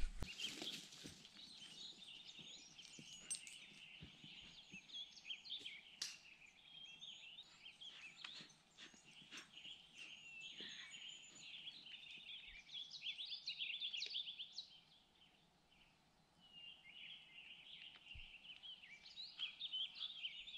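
Faint birdsong from several small birds chirping and trilling, with a few light clicks mixed in. The birds fall silent briefly about three quarters of the way through.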